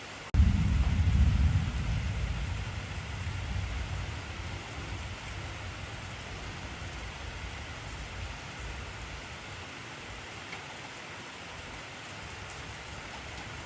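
Steady heavy rain hissing, with a clap of thunder rumbling in suddenly just after the start. The thunder is loudest for the first second or two and then fades over the next several seconds.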